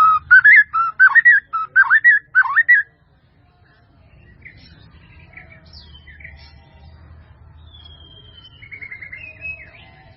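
White-rumped shama (murai batu) singing loud, rich whistled phrases that swoop up and down for about three seconds. Fainter, varied chirps, trills and whistles follow.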